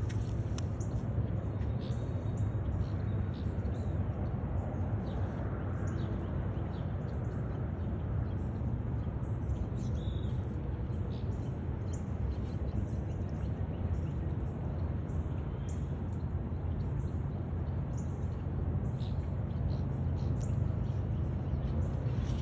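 A steady low rumble runs throughout, with faint scattered bird chirps above it.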